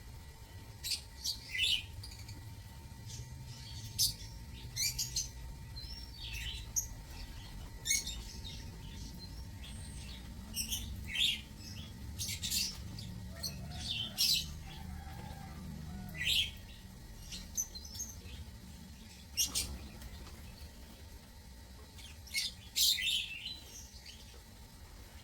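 Lovebirds chirping in an aviary: short, sharp, high-pitched calls at irregular intervals, over a low rumble.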